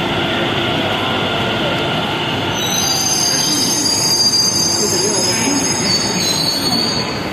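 Metro train running, heard from inside the carriage: a steady rumble, with a high-pitched wheel squeal of several held tones setting in about two and a half seconds in and fading near the end.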